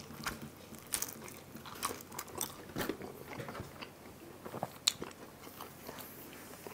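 A person biting into and chewing a slice of pizza, the crust crunching in irregular bites and chews, with sharper crunches about a second in and near five seconds.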